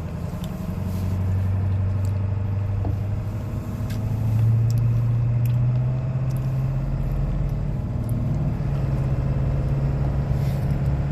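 Car engine and road noise heard from inside the moving car's cabin, a steady low drone whose pitch rises a little about four seconds in and then holds.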